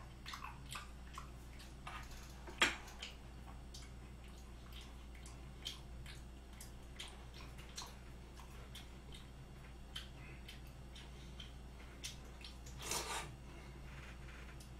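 Faint wet chewing and mouth smacks of a person eating raw beef yukhoe, with scattered small clicks from the chopsticks and plate. One sharper click comes about two and a half seconds in.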